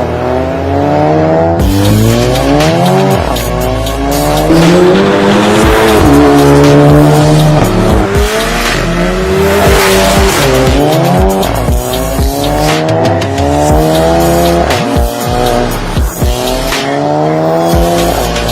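Volkswagen Golf GTI Mk7 turbocharged four-cylinder running through an XForce VAREX cat-back exhaust, accelerating hard. The engine note climbs again and again and drops back at each gear change.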